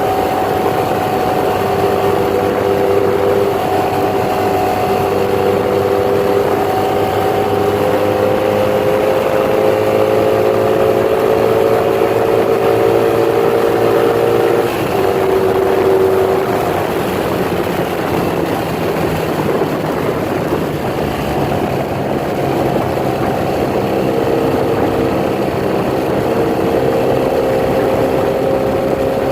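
1982 Honda Magna's V4 engine running through newly fitted Emgo aftermarket mufflers, a steady exhaust note that drifts slowly in pitch, with a brief change about halfway through.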